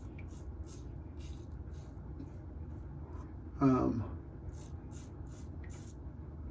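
Shaving brush working lather, a quick, steady run of soft wet swishing strokes, a few a second.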